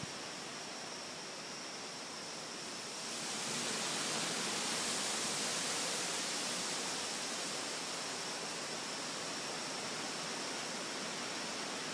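Heavy storm wind rushing steadily, swelling in a gust about three seconds in and easing a little after.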